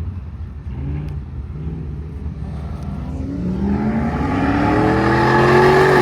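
A car engine accelerating, its pitch rising steadily and growing louder over the second half.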